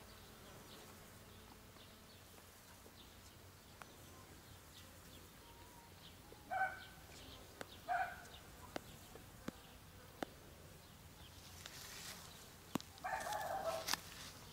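Bird calls over a faint background: two short calls about halfway through and a longer call of about a second near the end, with scattered faint clicks.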